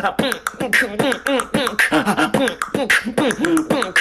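Vocal beatboxing: a fast run of sharp, drum-like mouth clicks mixed with short pitched vocal sounds that bend up and down in pitch.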